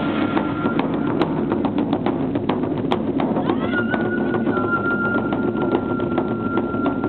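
Japanese festival music: a rapid clicking percussion beat under one long, high held tone that slides up a little about halfway through.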